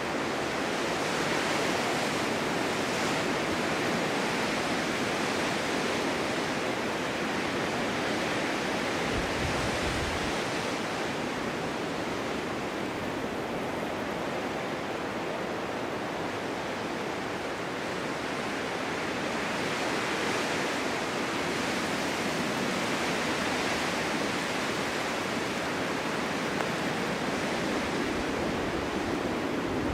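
Snowstorm wind blowing steadily, an even rushing noise that swells and eases gently, with a brief low rumble about nine seconds in.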